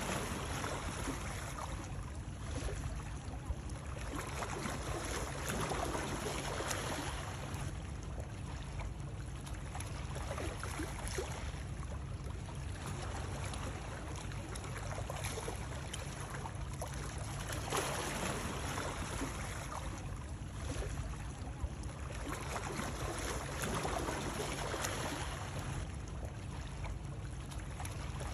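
Flowing water: a steady rush with softer and louder swells every few seconds.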